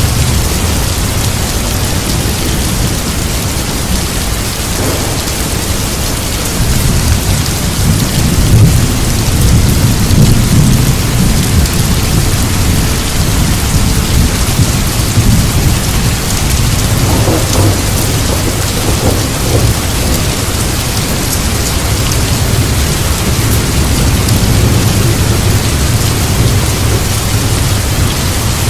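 Heavy rain falling steadily, with a deep thunder rumble swelling and fading about a third of the way in.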